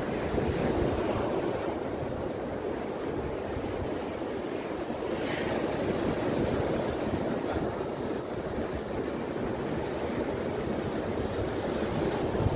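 Sea waves washing on the shore in a steady surging rush, with wind buffeting the microphone.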